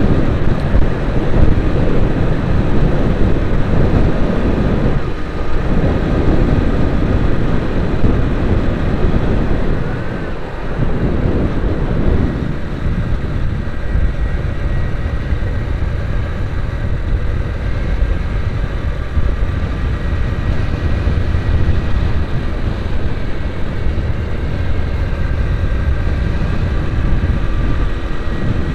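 A vehicle driving along a road: steady engine and road noise with a rattly rumble, easing briefly about ten seconds in.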